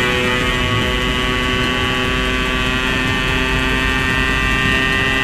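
Yamaha RX-King 135 cc single-cylinder two-stroke with an Altech C20 aftermarket exhaust, held at high revs while ridden hard, its pitch staying steady.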